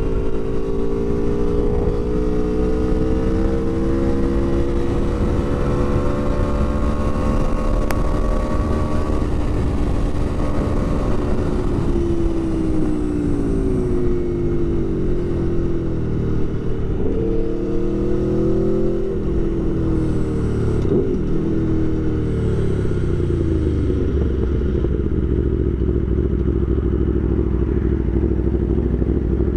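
Aprilia Tuono V4 1100 Factory's V4 engine running under way, heard from inside the rider's helmet over wind noise. The revs climb slowly for the first several seconds and hold, then fall and rise several times, settling to a low steady note near the end.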